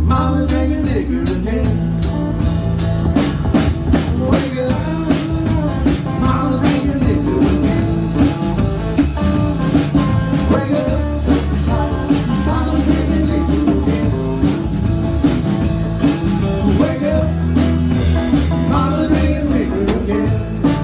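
A live rock band playing a song: drum kit keeping a steady beat under bass and electric guitar.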